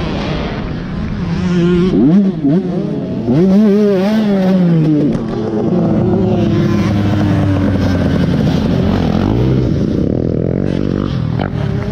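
Dirt bike engine revving, its pitch repeatedly rising and falling for the first five seconds, then running at a steadier pitch.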